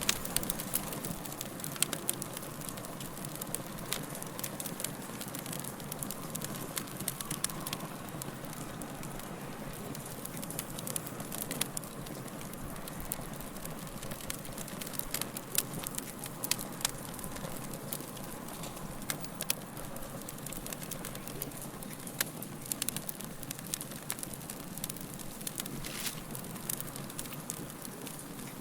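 Wood fire crackling: frequent sharp pops and snaps over a steady hiss.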